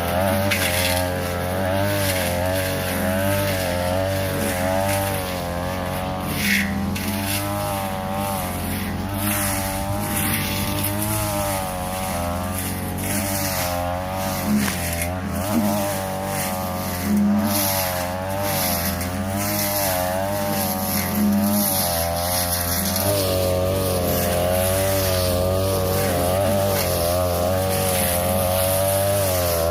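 42cc two-stroke brush cutter with a metal blade running at high speed, its engine pitch wavering up and down as the blade bites into tall grass and woody brush. Short, sharp strikes of the blade against stems come through many times over the engine.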